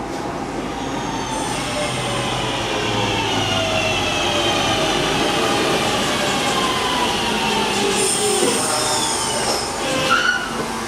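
A passenger train pulling into a station and slowing, with several whining tones sliding steadily down in pitch as it brakes over the rumble of the wheels. Brief high squeals from the wheels or brakes near the end.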